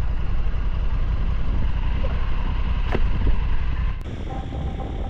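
Steady low rumble of a vehicle engine mixed with wind noise, with a single click about three seconds in; it cuts abruptly to a quieter hum about four seconds in.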